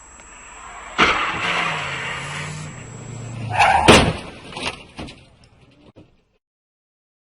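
Car crash: a rush of road and engine noise, a short squeal, then a loud crash impact about four seconds in, followed by a few smaller knocks that die away.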